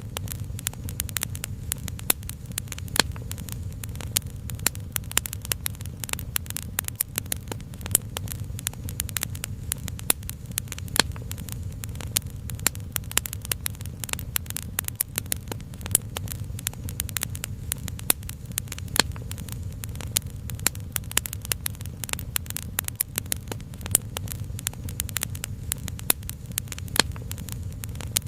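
Fire crackling with a constant stream of sharp pops and snaps over a steady low rumble.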